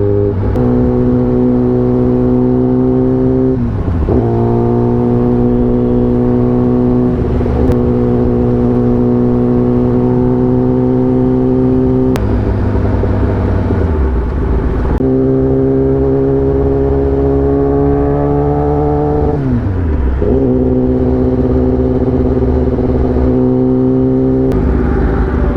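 Motorcycle engine running at steady revs on the move. Its pitch drops and climbs back several times as gears are changed.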